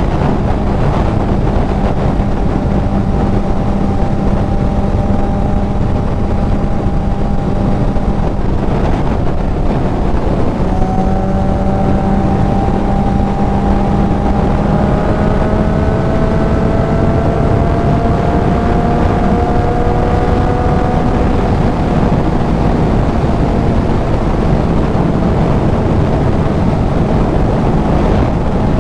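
Kawasaki Z900's inline-four engine running at speed through a CS Racing full exhaust, under heavy wind rush on the helmet microphone. The engine note breaks briefly about nine seconds in, then climbs steadily for several seconds before levelling off.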